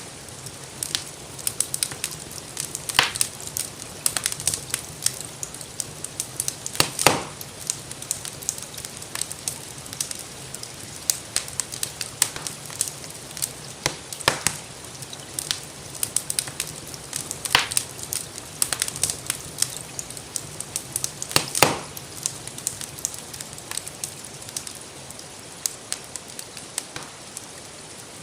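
Wood fire crackling, with many small pops and a few louder sharp pops every few seconds, over a steady hiss of rain.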